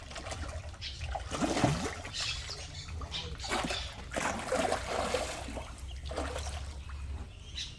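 Irregular splashing and sloshing at the water's surface as piranhas snatch at bread thrown to them.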